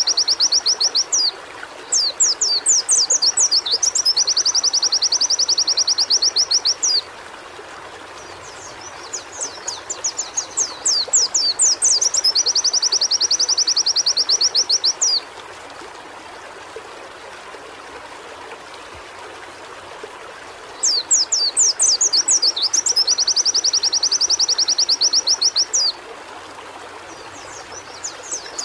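White-eye (pleci) singing in repeated phrases: each opens with a run of quick upward-sweeping chirps and ends in a fast, even, high trill lasting a few seconds, with pauses of one to five seconds between phrases. A faint steady hiss sits underneath.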